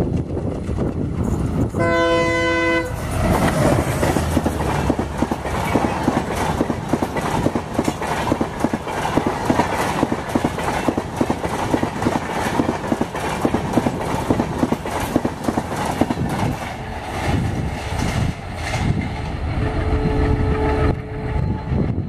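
WDG3A diesel locomotive sounds its horn for about a second, with its engine running underneath. The express then passes close at speed: a long, fast clatter of coach wheels over rail joints and points. A second, fainter horn sounds briefly near the end.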